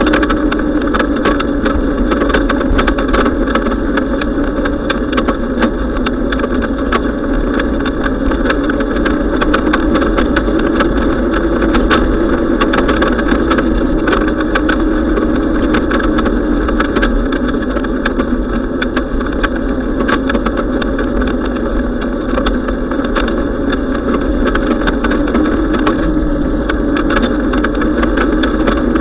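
Steady, loud ride noise from a bicycle on the move, with frequent sharp clicks and rattles throughout.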